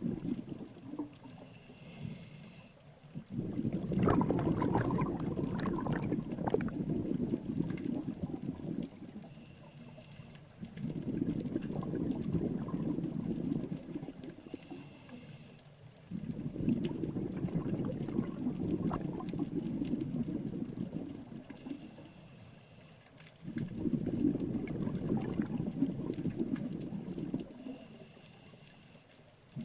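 Scuba diver breathing through a regulator underwater: a short hissing inhale, then a few seconds of bubbling exhalation. The cycle repeats about every six to seven seconds, with four exhalations.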